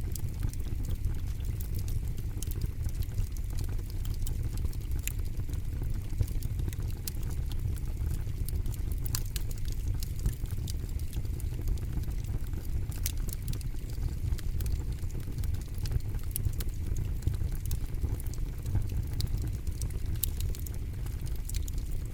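Campfire burning with a steady low rumble and frequent sharp crackles and pops scattered irregularly throughout.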